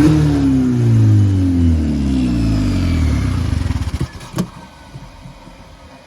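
Honda K-series four-cylinder engine in a Toyota MR2 revving, its revs sliding steadily down over about three seconds before the engine dies away about four seconds in. A sharp click follows shortly after.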